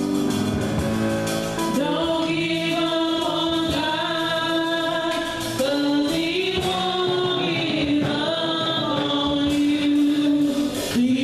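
Choir singing gospel music, with sustained notes that shift pitch every second or so.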